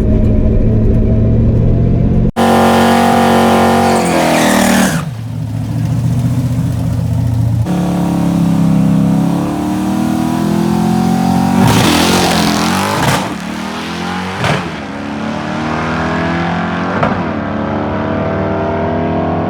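Fox-body Mustang's 5.0 V8, with exhaust dumped short behind the doors, running at full throttle down a drag strip. Its revs climb and then drop sharply several times as the five-speed manual is shifted through the gears.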